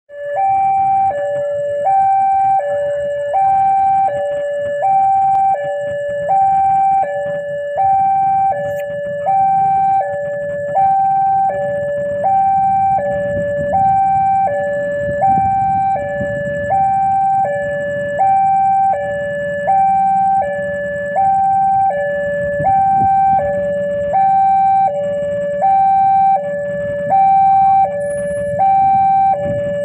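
Railway level-crossing warning alarm sounding, an electronic two-tone signal that alternates evenly between a higher and a lower note, about one high-low cycle every second and a half, over a low rumble of waiting traffic. The alarm signals that a train is approaching and the crossing is closed.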